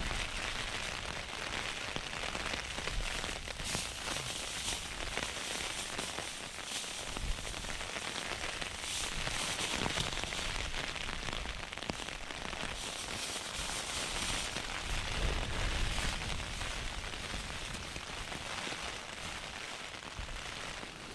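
Heavy rain falling, a dense steady crackle of drops striking a surface close to the microphone.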